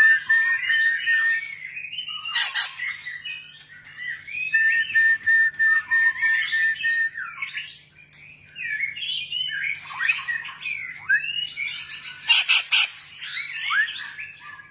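White-rumped shama singing a varied song of whistles, glides and harsh notes, with two runs of quick repeated notes on one pitch near the start and in the middle. A faint steady low hum runs underneath.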